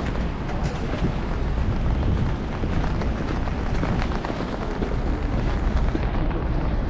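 Wind buffeting the microphone, a steady low rumble, over outdoor street ambience with faint scattered ticks.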